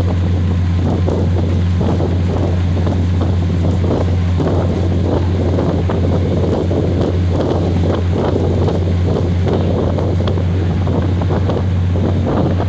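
Train running: a steady low drone with rattling and wind noise on the microphone.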